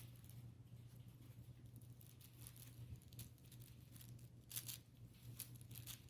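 Puppies playing with fabric: faint, scattered rustling and scratching, a little louder a few times near the end, over a steady low hum.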